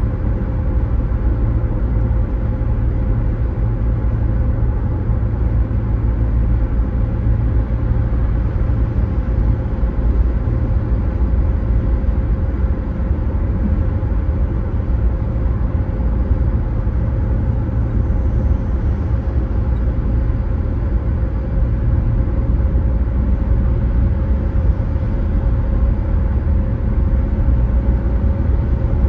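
Steady road noise of a moving car: a constant low rumble with a faint steady tone above it, with no change in speed or any sudden event.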